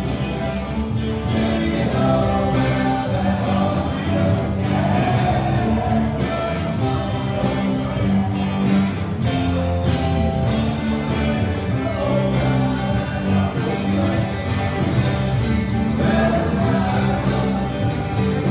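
A band playing music with a singer, drums keeping a steady beat under vocals and instruments.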